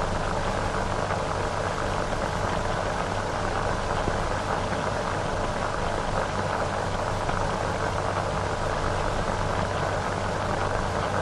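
Steady hiss and crackle of an old film soundtrack between narration lines, with a low hum underneath.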